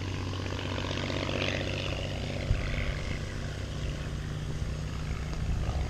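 Ryan Navion single-engine propeller plane flying by, its piston engine and propeller droning steadily. A brief knock about two and a half seconds in.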